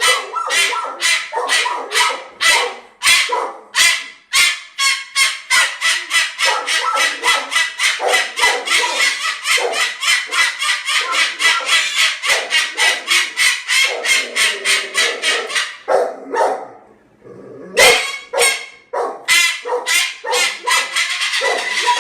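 Moluccan cockatoo giving a long run of short, loud, harsh squawks in quick succession, speeding up to about four a second. They break off about three quarters of the way through and start again near the end.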